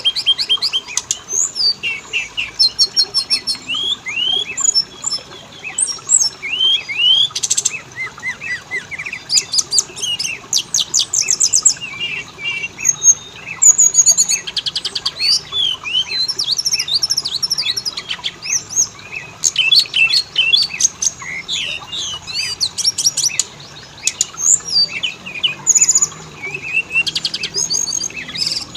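Oriental magpie-robin (kacer) song: a continuous, varied run of loud whistles, rising and falling chirps and rapid trills, with hardly a pause.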